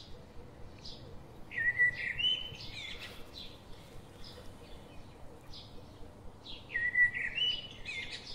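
A songbird singing the same short whistled phrase twice, about five seconds apart; each phrase starts low and steps up in pitch. Short high chirps come between the phrases.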